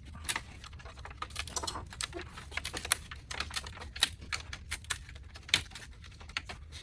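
Irregular light clicks and rattles of small parts being handled, a few sharper ones standing out.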